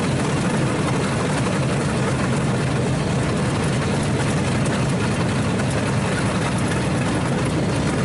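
Steady low rumble of a running engine, holding at an even level throughout.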